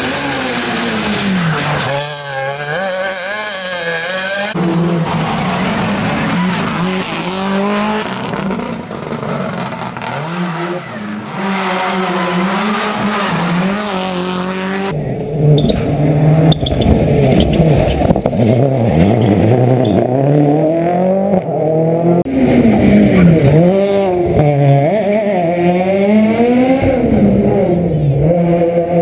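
Rally car engines revving hard, pitch climbing and dropping with throttle and gear changes, heard in several short passes that change abruptly from one to the next.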